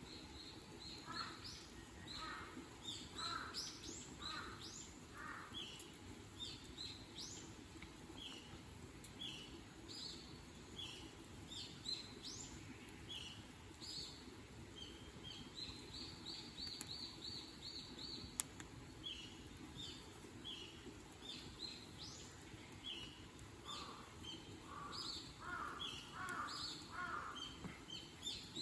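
Small birds chirping and calling throughout, over a steady low background rush. A lower-pitched call comes in a short run of about five notes near the start and again near the end, and there is one sharp pop about two-thirds of the way through.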